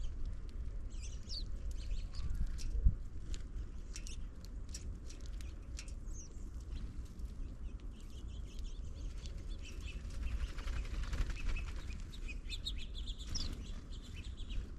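House finches chirping in short bursts at a feeder, among many sharp clicks and taps, over a low steady rumble. One loud thump about three seconds in.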